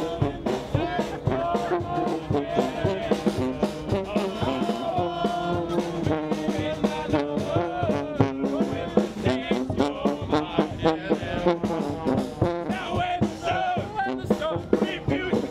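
Military band playing live music on brass instruments, with a steady beat.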